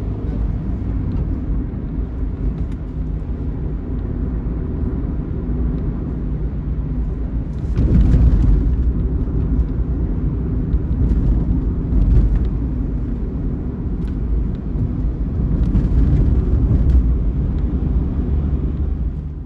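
Intercity bus running at speed: a steady low engine and road rumble that swells louder several times.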